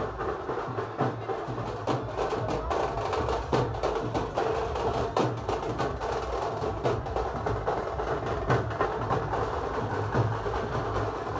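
Percussion-led music with a continuous run of sharp, rapid drum strikes over a dense low background.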